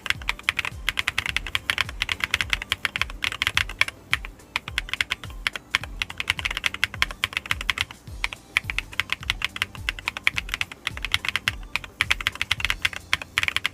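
ABKO AK998 mechanical keyboard with Melon switches being typed on fast and continuously, the keys making a rounded 도각도각 clacking. The keystrokes come in quick runs with short pauses between them.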